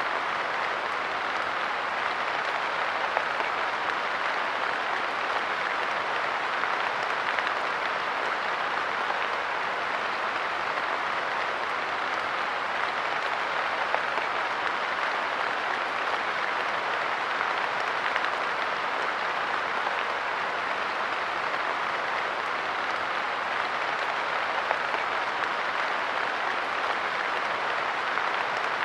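Light rain falling steadily, a dense, even patter of drops with small ticks here and there.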